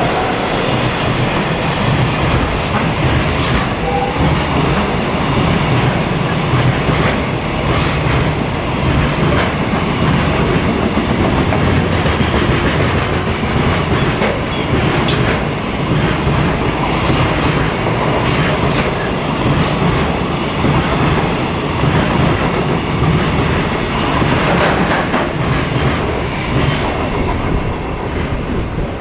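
High-speed freight train running through a station without stopping: a steady, loud rumble of wagons with wheels clacking over rail joints and brief high-pitched squeals now and then.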